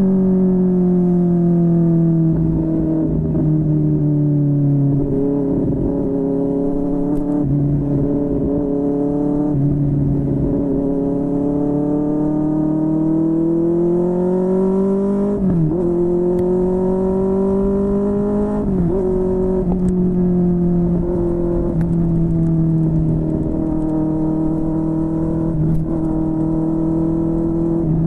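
QJMotor SRK600 inline-four engine through a Yoshimura R11 exhaust, running steadily under way with its pitch drifting slowly up and down, and two brief sharp dips in pitch, about halfway and about two-thirds in.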